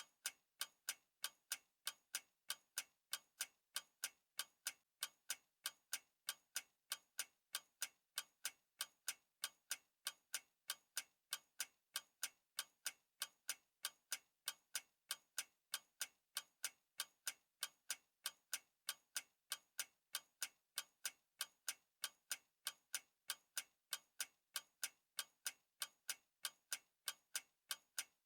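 A clock ticking with rapid, even ticks, several a second, keeping a steady rhythm.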